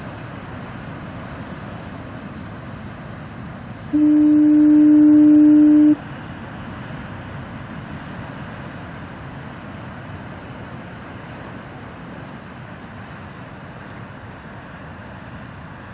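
A foghorn gives one steady low blast of about two seconds, about four seconds in, over the continuous rush of heavy surf.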